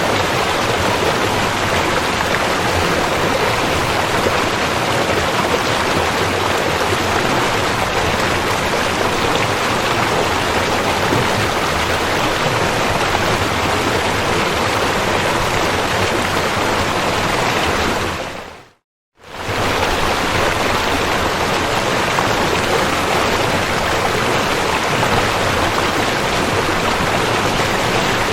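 River water flowing, a steady rushing noise. About nineteen seconds in it fades out to silence for a moment and fades back in.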